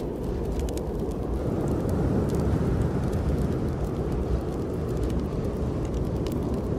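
Steady low rush of snowstorm wind, with scattered small crackles and pops from a wood fire in a fireplace.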